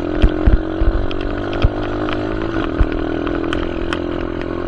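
Small dirt bike engine running steadily under throttle as the bike is ridden towards a jump, with a few sharp knocks, most of them in the first two seconds.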